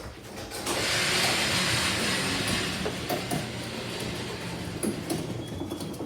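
Belt-drive garage door opener running as it raises the old sectional door along its tracks. A steady mechanical hum and rumble with rattling, starting right away and at full level from about a second in.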